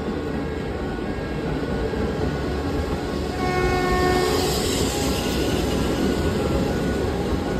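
Express train passing at speed with a steady rumble and rush of wheels on the track. The locomotive sounds its horn for about a second and a half, about three seconds in, as the noise of the passing train peaks.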